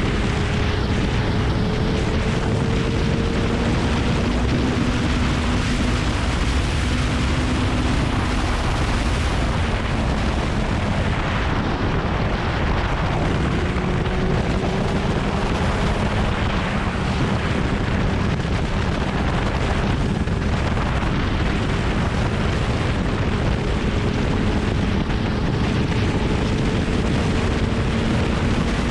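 Kawasaki Ninja ZX-9R's inline-four engine pulling at speed under heavy wind buffeting on the microphone, the engine note climbing slowly now and then.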